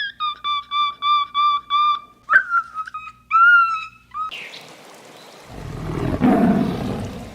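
An animal's clear whistled calls, a quick run of level-pitched notes at about three a second, then a few higher calls that rise in pitch. About four seconds in they give way to a steady hiss, with a low rumble that swells near the end.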